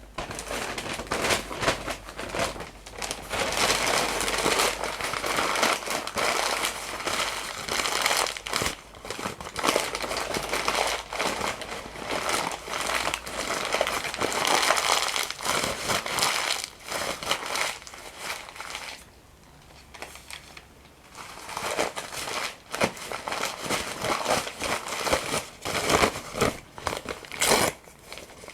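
Paper being crumpled and crinkled close to the microphone: a dense run of crackling that stops briefly about two-thirds of the way through, then resumes as sharper, more separate crackles.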